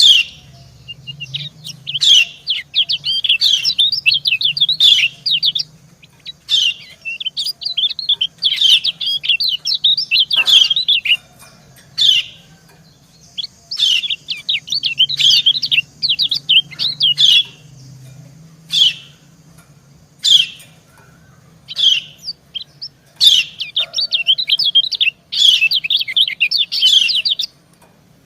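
Kecial kuning (lemon-bellied white-eyes) calling back and forth: the female's sharp, falling 'ciak' calls alternate with fast twittering runs of a few seconds each.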